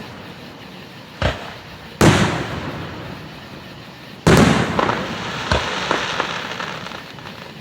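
Aerial firework shells bursting: a smaller bang about a second in, then two loud booms that echo away, the second followed by a run of crackles.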